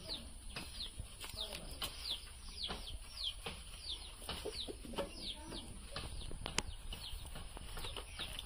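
Birds chirping, short falling chirps repeating a few times a second, with irregular sharp knocks and thuds in between, one louder knock near the end.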